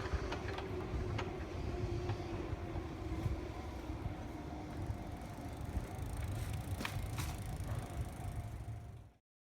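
Electric commuter train running past a railway crossing: a steady low rumble with a slowly falling hum and a few sharp clicks. The sound cuts off abruptly about nine seconds in.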